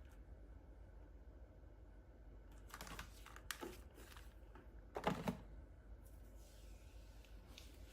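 Faint clicks and light tapping in two short clusters, about three seconds in and again about five seconds in, over quiet room tone.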